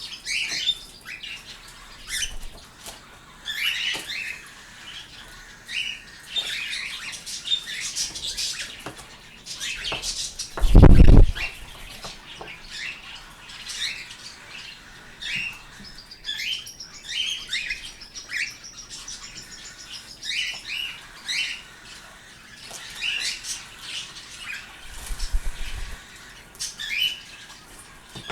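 Pet birds chirping and calling repeatedly in short notes, with a loud low bump lasting about a second, about eleven seconds in.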